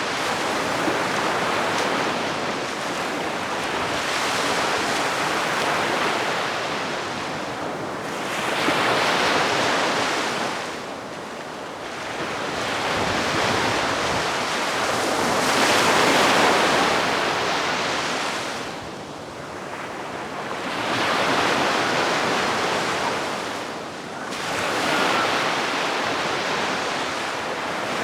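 Calm sea waves washing onto the shore, each wave swelling and falling away every several seconds.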